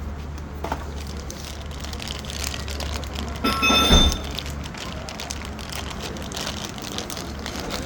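Workshop background noise with a steady low hum and scattered handling noises. A brief ringing, metallic-sounding event comes about halfway through.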